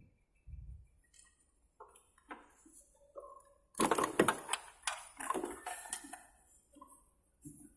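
Clattering and rustling handling noises from hands working on car parts, with a dense run of clicks and rattles starting about four seconds in and tailing off.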